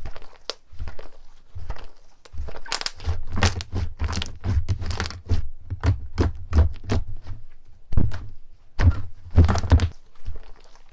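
Slime being pressed and squeezed by hands: a quick, irregular run of sharp pops and clicks over soft thuds. The pops come thickest from about three seconds in and again in a dense burst about nine seconds in.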